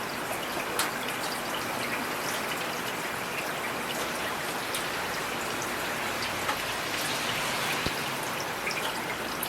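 Steady rainfall: a dense, even hiss with individual drops ticking sharply here and there, one louder tick about a second in.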